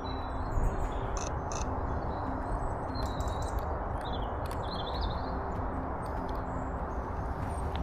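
Small songbirds chirping and warbling in short high phrases, over a steady background of low outdoor noise.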